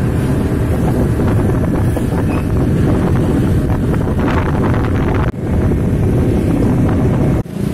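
Loud, steady vehicle rumble with wind buffeting the microphone. The sound drops out briefly twice, about five seconds in and near the end.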